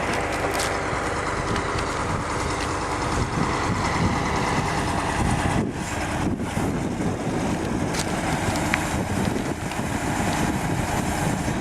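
Heavy diesel engine running steadily, with a couple of short sharp knocks, one near the start and one about eight seconds in.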